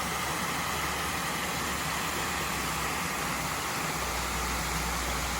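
Steady hiss-like noise at an even level, with a low hum that comes in about four seconds in.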